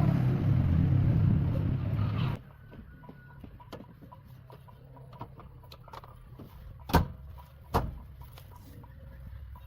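A vehicle's engine rumbling, cut off suddenly a little over two seconds in. Then a quiet stretch with faint ticks and two sharp knocks close together.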